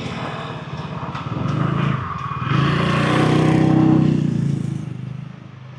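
Road traffic: a motor vehicle's engine passing by, growing louder to a peak a little past the middle and fading away near the end.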